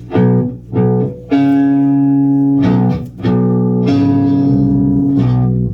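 Electric guitar playing a short part: two quick plucked notes, then longer ringing notes and chords, in two phrases.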